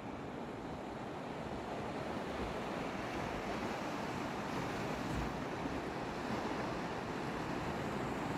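Sea waves washing against the shore in a steady rush, growing slightly louder, with a little wind buffeting the microphone.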